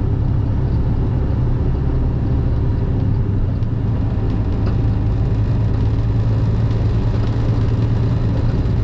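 Semi truck's diesel engine and tyre noise heard from inside the cab while driving, a steady low drone with no change in pitch.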